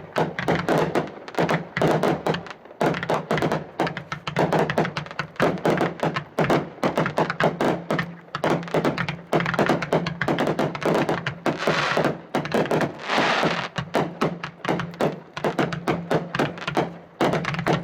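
Three 500 gram consumer firework cakes (Salute to the Red, White, and Blue) firing at once: a continuous barrage of launch thumps and aerial bursts overlapping, several shots a second.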